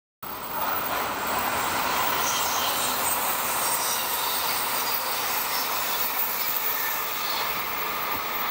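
Train running past on the rails: a steady rush of wheel and running noise that starts abruptly a moment in, with faint high-pitched wheel squeal above it.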